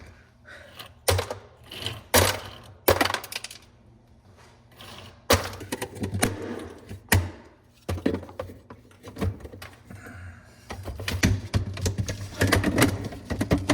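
Refrigerator ice maker in its harvest cycle: a series of separate clunks and clicks, turning into a denser clatter in the last few seconds.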